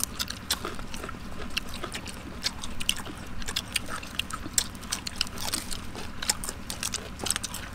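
A person eating close to the microphone: wet chewing and biting, with many small, irregular clicks and smacks.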